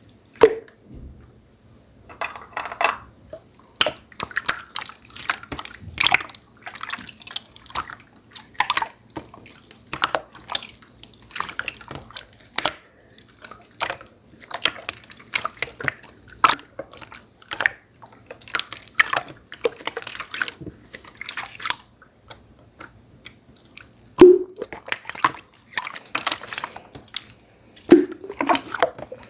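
Water jelly slime being pressed and poked by hand, giving irregular wet clicks, pops and squelches. A few louder plopping pops stand out, one right at the start and two near the end.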